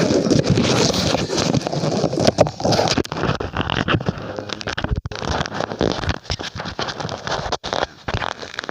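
Close, loud handling noise on a microphone: irregular rubbing, scraping and crackling as a rubber balloon is worked over it.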